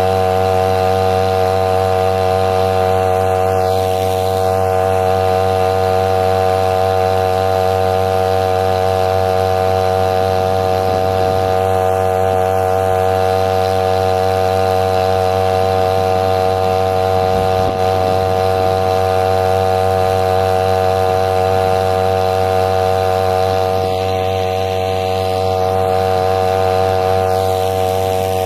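Small engine running steadily at one constant speed, giving an even, unbroken hum with a deep fundamental and many overtones.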